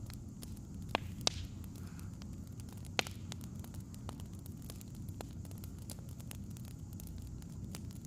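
Burning firewood crackling over a steady low rumble, with frequent small snaps and three louder pops in the first three seconds.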